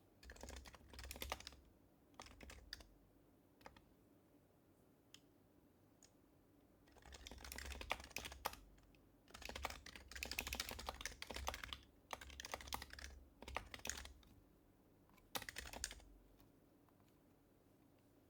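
Quiet typing on an HHKB Professional HYBRID Type-S keyboard, its silenced Topre switches giving soft key clicks. The keystrokes come in quick bursts, with a few single taps and short pauses between. The longest run of typing comes in the middle.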